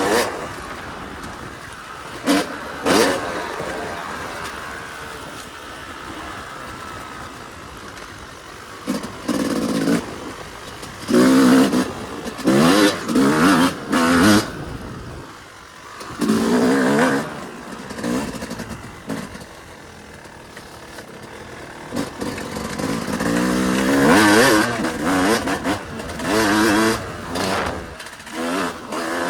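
Yamaha YZ250 single-cylinder two-stroke dirt bike engine under hard throttle on a trail ride. It revs up in repeated surges, with a quick run of short blips midway and quieter stretches of coasting between.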